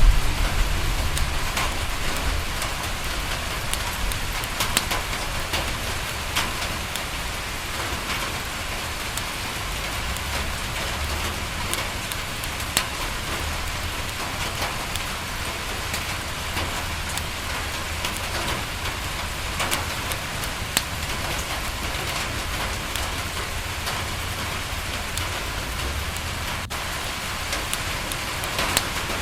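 Steady rain falling on a window pane, a continuous hiss scattered with many small sharp ticks and crackles. A low rumble sits underneath, strongest in the first second and then coming back faintly now and then.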